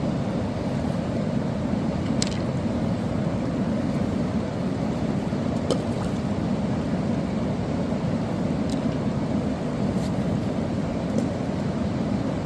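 Steady rush of a river flowing, an even, unbroken noise with a few faint ticks here and there.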